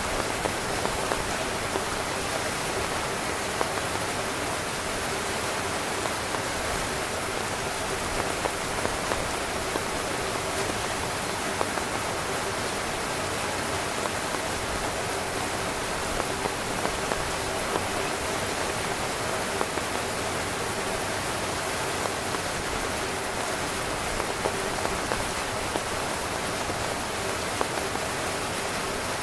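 Heavy rain drumming on a tent, a steady dense hiss of many small drop impacts.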